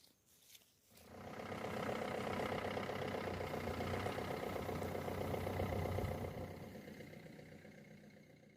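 A motor vehicle engine running steadily, coming up about a second in and fading away over the last few seconds.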